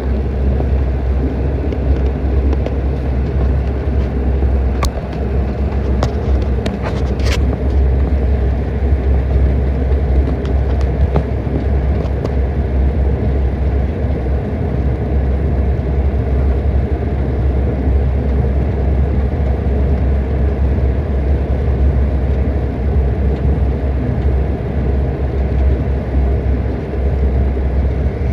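Jet airliner cabin noise during landing: a loud, steady low rumble of engines and rushing air, with a few light clicks about five to seven seconds in.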